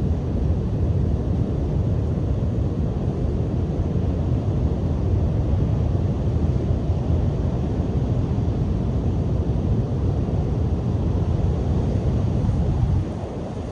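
Strong sea wind blowing across the microphone as a steady low rumble, with surf breaking on the shore beneath it. The rumble eases a little near the end.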